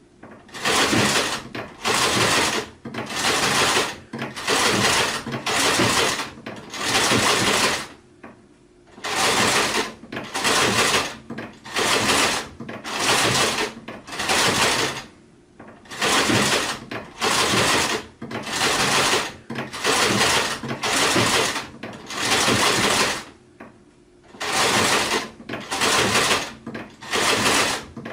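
Sewing machine stitching in short runs of about half a second to a second each, one after another with brief pauses between them and a few longer stops.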